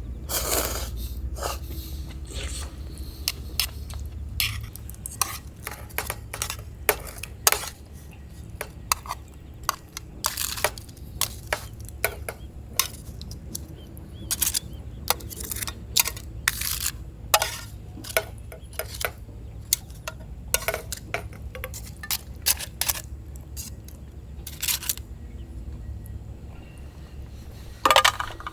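Irregular sharp clinks and clicks, like dishes or utensils being handled, several in quick succession at times, over a steady low rumble.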